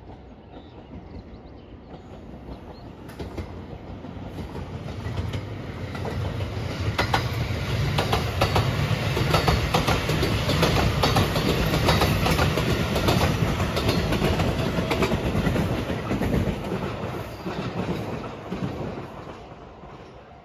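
Rapid Marine Liner electric train approaching and passing at speed, wheels clattering over the rail joints, building to its loudest in the middle and then fading away.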